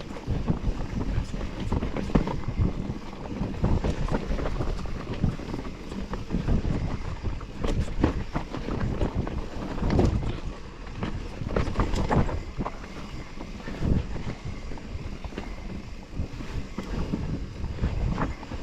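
Wind buffeting the microphone of a camera riding along on a moving bicycle, with irregular rattles and knocks from the bike over rough ground.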